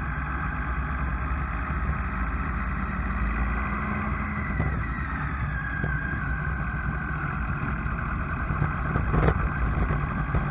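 A vehicle engine running steadily with a low rumble and a constant hiss over it, with one sharp knock about nine seconds in.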